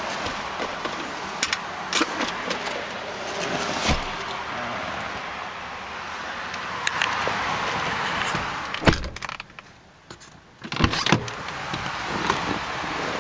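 Clicks and knocks from a car being handled, its door and fittings, over a steady background hiss. A heavier thump comes about nine seconds in, then a brief hush and another burst of knocks.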